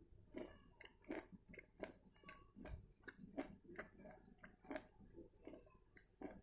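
Faint, steady chewing of edible clay close to the microphone: about two to three soft crunches a second as a mouthful of half-roasted nakumat clay is ground between the teeth.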